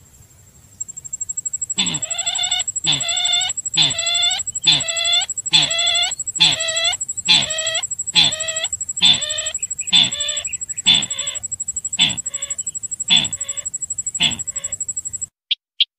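A sintar bird call of the kind played as a lure: about sixteen harsh, falling calls, roughly one a second, the last few shorter. A steady high-pitched tone runs behind them, and everything cuts off suddenly near the end.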